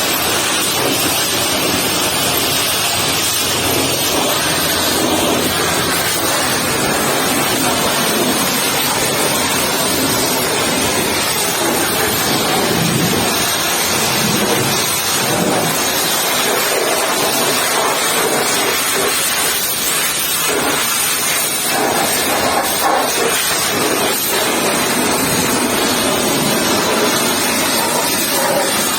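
Pressure washer jet spraying water against a mud-caked truck: a steady, loud hiss of spray that changes in tone from time to time as the jet moves over different surfaces.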